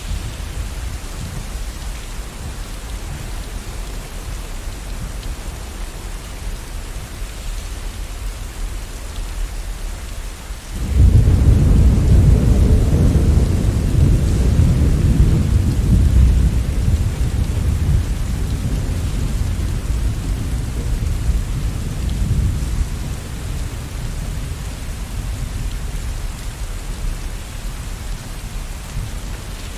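Steady rain with a roll of thunder: about a third of the way in a deep rumble starts suddenly and swells loud, then slowly fades back under the rain over about ten seconds.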